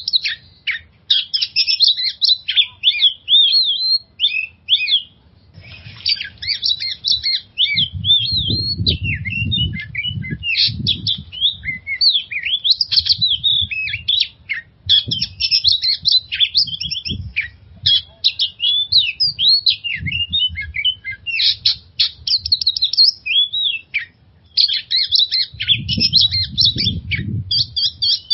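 Oriental magpie-robin (kacer) singing a long, varied song of quick whistles and chattering phrases, almost without pause. A low rumble sounds underneath twice, about eight seconds in and again near the end.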